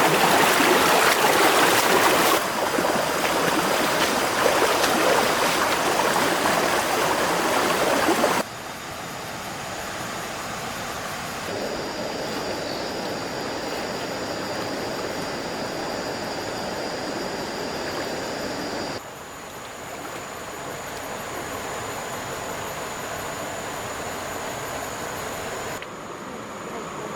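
Flowing stream water, a steady rushing hiss that drops abruptly in level several times, loudest in the first third.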